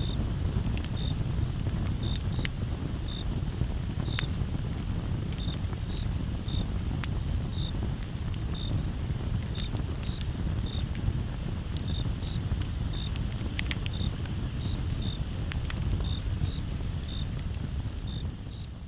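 Campfire burning with a low rumble and frequent sharp crackles and pops of burning wood. Crickets chirp in short, fairly regular pulses about twice a second over a steady high insect trill.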